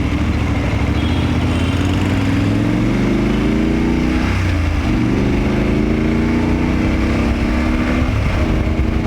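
BMW F850GS parallel-twin engine accelerating through the gears, its pitch rising, dropping at a shift about four and a half seconds in, rising again and dropping at another shift near the end, over a steady rush of wind.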